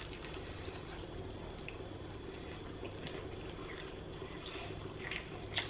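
Faint chewing and mouth sounds of someone eating a fried chicken wing: a few soft, scattered clicks and smacks over a steady low hum.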